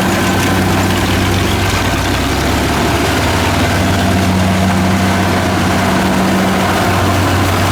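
Kubota DC70 combine harvester's diesel engine running steadily with an even, low drone.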